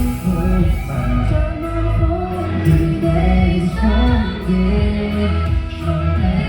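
Live performance of a pop-rock song: a band playing with a voice singing the melody over steady bass and drums.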